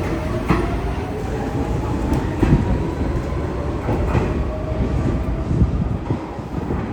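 R46 subway train's traction motors whining and slowly rising in pitch as it accelerates, over a steady rumble of wheels on rail. Sharp knocks sound a few times as the wheels cross rail joints.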